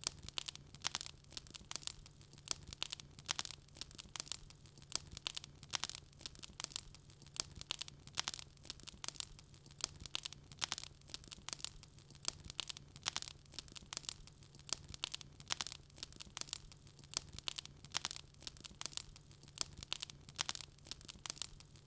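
Wood fire crackling in a fireplace: a dense, continuous run of sharp pops and snaps, several a second, over a faint steady low hum.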